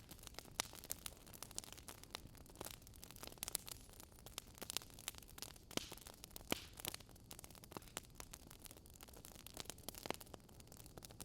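Quiet wood fire crackling in a fireplace: irregular sharp pops and snaps, several a second, over a soft hiss.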